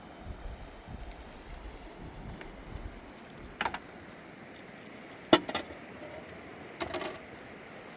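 Three sharp knocks over a steady rushing background, about a second and a half apart; the middle one is loudest and is followed by a quick second hit.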